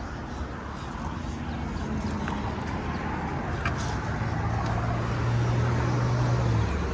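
Road traffic going by, with a low, steady engine drone that grows louder from about the middle and cuts off shortly before the end.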